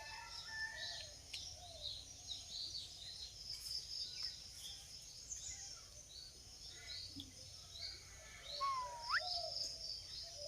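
Birds chirping: many short, high chirps throughout, with one clear whistle a bit over eight seconds in that dips slightly and then sweeps sharply upward.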